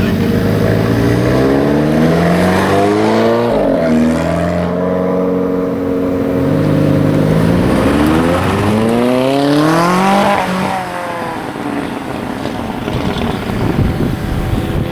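Sports car engine accelerating hard as it pulls away, the revs climbing with a quick upshift about four seconds in. The revs then climb again to a peak near ten seconds, and the sound falls away and fades as the car goes past.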